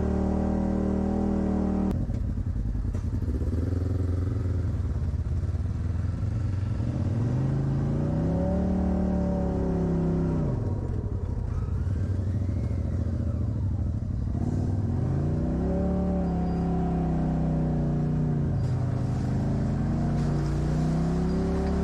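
Off-road vehicle's engine revving up and down under load, its pitch climbing and dropping several times.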